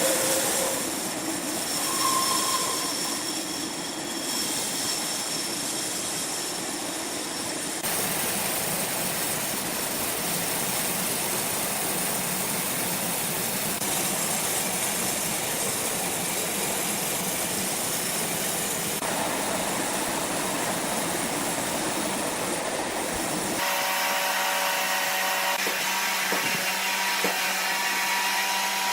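Sawmill machinery running: a steady, loud mechanical noise with a hiss. It changes abruptly about 8 seconds and about 24 seconds in, and after the second change a steady hum is heard.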